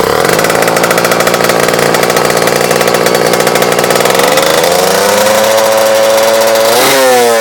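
Kawasaki Ninja RR two-stroke motorcycle engine through its exhaust, running at a steady idle, then revved up about four seconds in and held, with a short blip and the revs dropping near the end.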